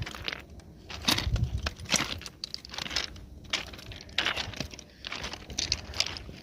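Footsteps crunching on loose ground at a walking pace, about one step a second, with some rattling.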